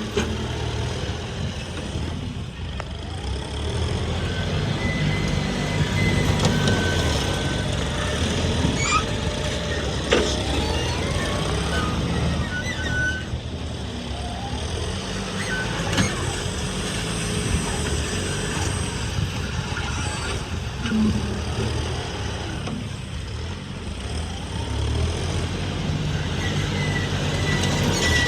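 Heavy diesel machinery working: engines running, their note rising and falling, with sharp metal clanks about ten and sixteen seconds in and a few brief high beeps.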